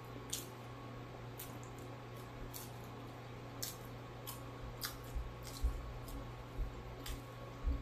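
A person chewing fried catfish: scattered soft wet mouth clicks and smacks over a steady low hum, with a few dull low thumps in the second half.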